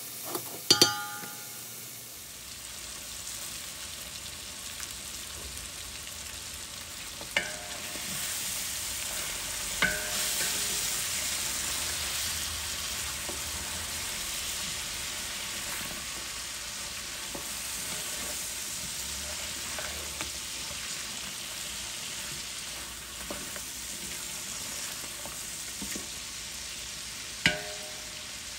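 Beef and potato pieces sizzling and bubbling in their sauce in a large metal pot, stirred with a wooden spatula. A few ringing knocks of the spatula against the pot: one about a second in, two near the middle, one near the end.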